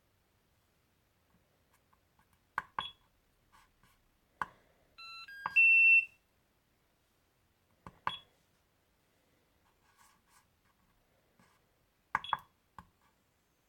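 Hobby LiPo battery charger being operated: button clicks, several with a short key beep, and about five seconds in a quick run of short electronic tones at different pitches followed by one loud, steady high beep lasting about half a second.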